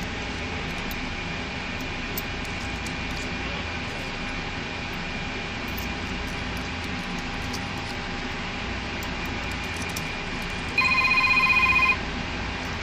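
Steady running noise inside a Regiosprinter diesel railcar. Near the end, a loud rippling tone with several pitches sounds for about a second and cuts off.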